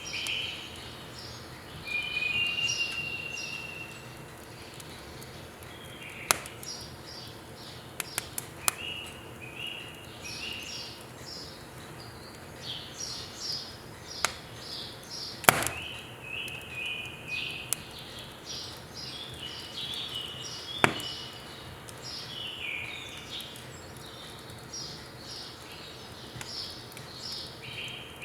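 Small birds chirping in quick repeated phrases throughout, over the sharp pops and cracks of firewood burning in a wood stove: about half a dozen pops, the loudest about halfway through.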